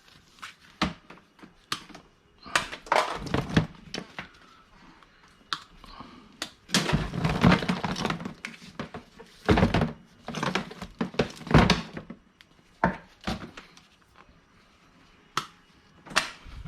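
Irregular thunks and clacks of hard scrap items being handled and worked on by hand, in a small room.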